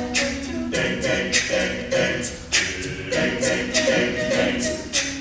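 All-male a cappella group singing wordless held backing harmonies, with vocal percussion keeping a steady beat of sharp hits about twice a second.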